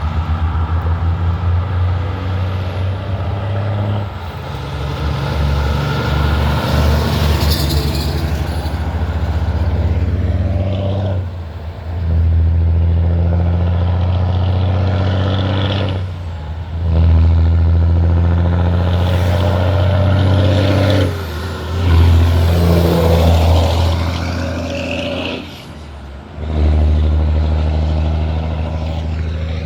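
Semi-truck diesel engines pulling away under load, the engine note dropping briefly about four times as the trucks shift up through the gears. A short air hiss, typical of air brakes, comes near the start.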